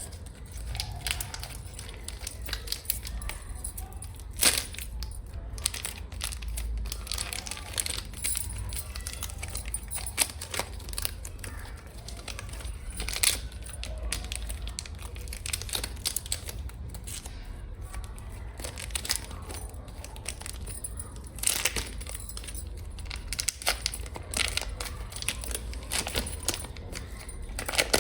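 Long fingernails tapping and scratching on packaging: a dense run of small clicks and crinkles, with a few louder, sharper taps.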